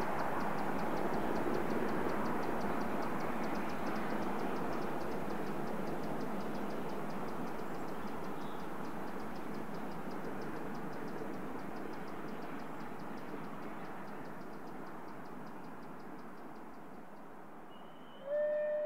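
Train running and drawing away, its noise fading steadily, with a fast, even ticking on top. A short, high-pitched tone sounds near the end.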